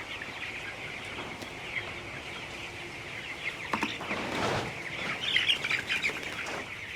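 A flock of young broiler chickens peeping and chirping continuously. There is a brief rustling scuffle about four seconds in, and the calls grow louder around five seconds.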